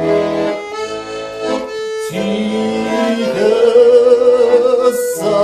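Accordion playing held chords as the introduction to a song, changing chord with short breaks about two and five seconds in.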